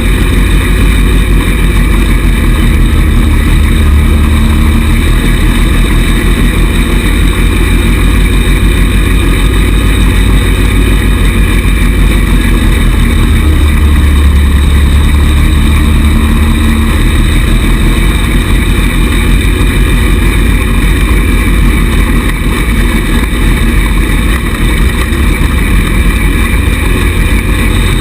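A 110cc buggy's small engine running steadily as it is driven, growing louder for a few seconds around the middle.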